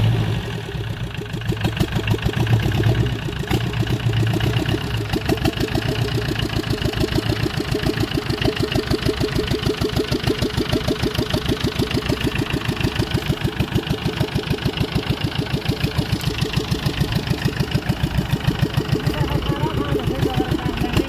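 Tata Ace engine of a homemade small tractor running with an even, rapid pulsing beat. A deeper low hum present at first fades out after about five seconds.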